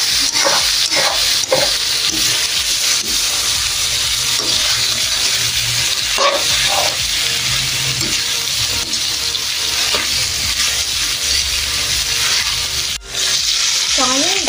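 Chicken liver and mixed vegetables sizzling in hot oil in a wok, stirred now and then with a metal ladle. The steady frying hiss breaks off for a moment near the end.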